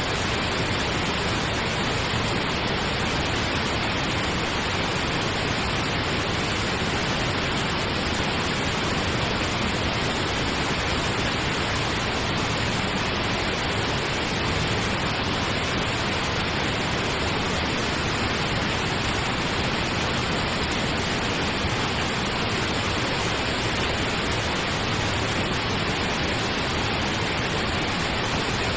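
Steady pink noise: an even, unchanging hiss spread across low and high pitches alike, with no breaks or events.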